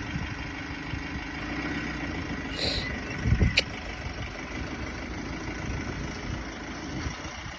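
Mitsubishi L300 Euro 4's turbo-diesel engine idling steadily and smoothly. A brief thump and a sharp click come about three and a half seconds in.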